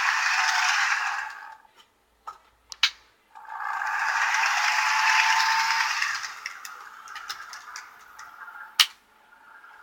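Model train running on the layout's track, its wheels and motor rattling loudly in two passes, one fading out about a second and a half in and one lasting about three seconds from the middle. A few sharp clicks fall between the passes and one near the end, with quieter rattling after the second pass.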